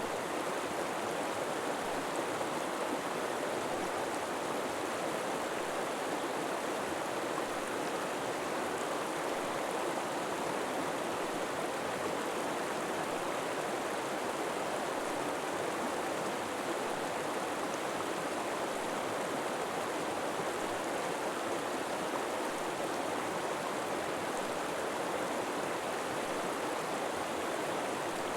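River water flowing over rocks: a steady, even rush of water.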